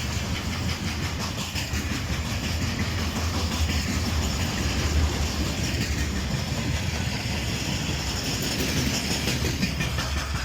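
A train passing on the line, its wheels clattering rhythmically over the rail joints under a steady rumble of rolling noise.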